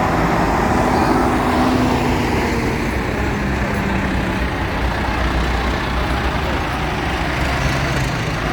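Engines of passing tractors and lorries running steadily, a continuous low drone with road noise.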